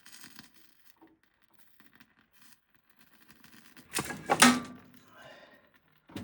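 A metal wood-stove door being swung shut with a loud clank about four seconds in, a little metallic ringing after it; before that only faint small ticks as the kindling catches.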